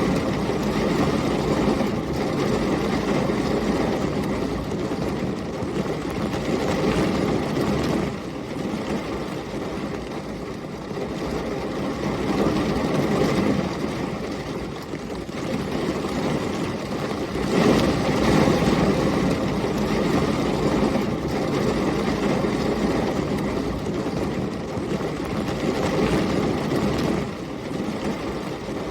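Heavy thunderstorm ambience: dense, steady rain noise under a deep rumble that swells and eases every few seconds.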